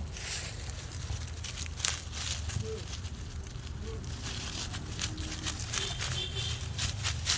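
Irregular rustling and crinkling clicks over a steady low rumble.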